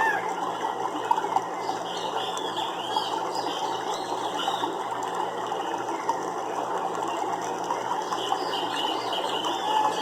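Nature ambience: a dense, steady chorus of rapid clicking and trilling animal calls. Short chirps rise and fall in pitch over it, a couple of seconds in and again near the end.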